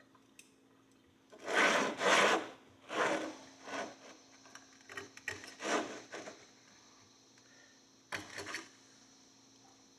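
A hand pick scraping and prying packed dirt out of an old pony horseshoe in short, uneven strokes, with pauses between them.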